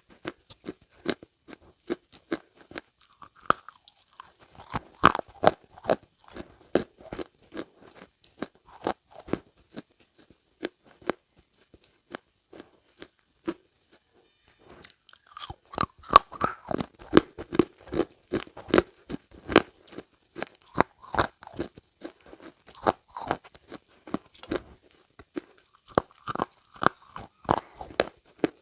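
Close-up crunching: many short, sharp, irregular crackles, several a second, thinning out for a few seconds around the middle before picking up again.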